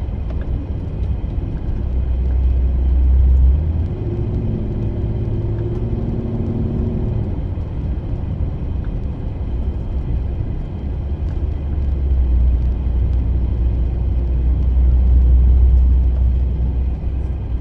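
Road noise inside a moving van: a steady low rumble of engine and tyres that swells twice, about two to four seconds in and again from about twelve to sixteen seconds.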